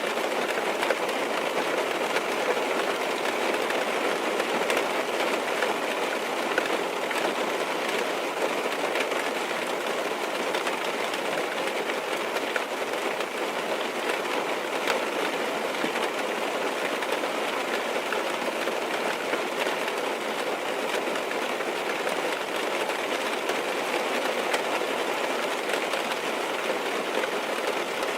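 Steady rain tapping on a car's roof and windows, heard from inside the car: a dense, even hiss full of small taps.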